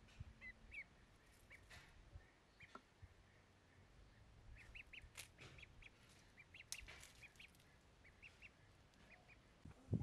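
Faint bird calls: short chirps repeated in quick clusters, busiest in the middle, over a faint low rumble.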